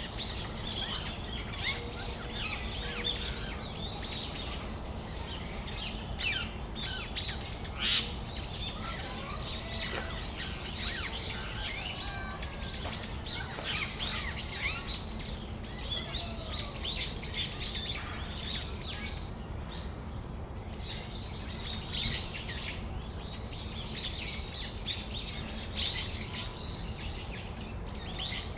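Brown-eared bulbuls calling: many short, shrill chirps and squeaks overlapping, with a steady low hum underneath.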